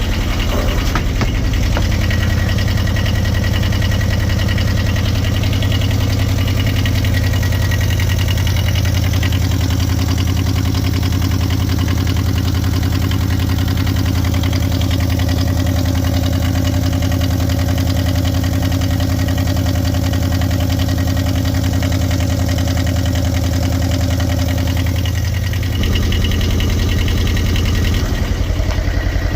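Sailboat's inboard engine idling steadily, with a slight change in its tone near the end.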